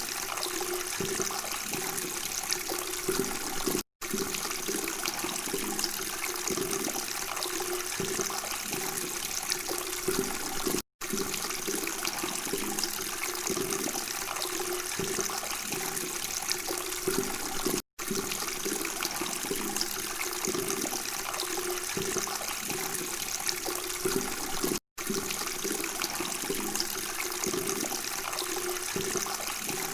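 Flowing water babbling steadily, cut by a very brief dropout about every seven seconds.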